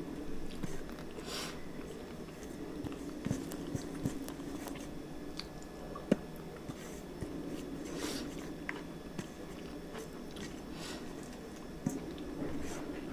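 A person chewing with the mouth while eating rice and curry by hand, with scattered small clicks and one sharp click about six seconds in.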